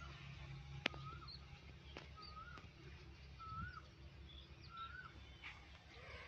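Faint outdoor birdsong: one bird repeats a short rising-and-falling call about once a second while other birds give short higher chirps, over a low steady rumble, with a single sharp click about a second in.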